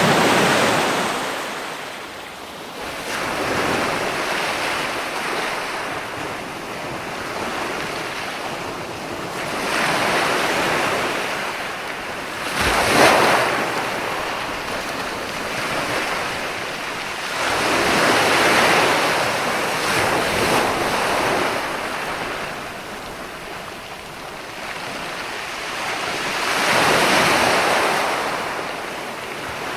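Ocean waves breaking and washing on the shore, the surf rising and falling in surges several seconds apart, with a sharper crash about 13 seconds in.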